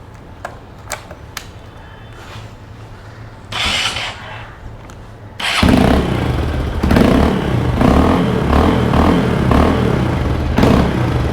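Hero Impulse's 150 cc single-cylinder engine heard through its stock exhaust, which an earlier owner modified. It runs low at first, with a short burst about three and a half seconds in. Just past halfway it comes on loud and is revved in several quick blips.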